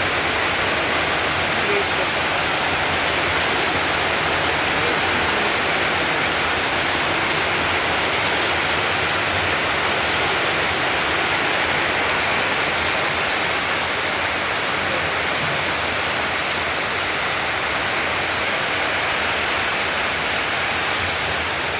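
Heavy rain falling in a downpour, a steady, even hiss that does not let up.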